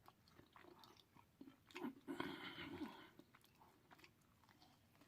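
Faint chewing and wet mouth sounds of a person eating close to the microphone, louder for about a second around two seconds in.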